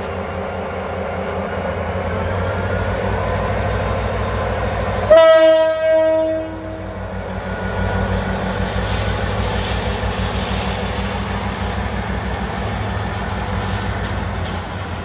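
Diesel-electric locomotive running with a steady low rumble and a faint high whine. About five seconds in a train horn sounds one loud blast lasting about a second and a half.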